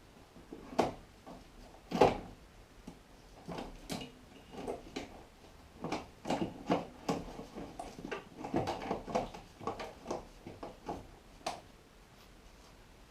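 Irregular knocks and clatters of hand tools and car parts being handled during engine removal work, several a second at times, the loudest about two seconds in, dying away near the end.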